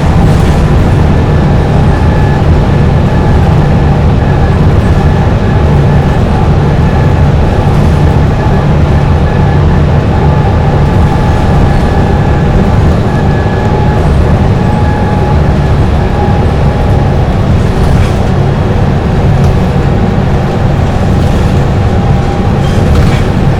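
Dennis Trident double-decker bus engine running at a steady cruising speed on a highway, a loud even drone with a faint higher whine above it.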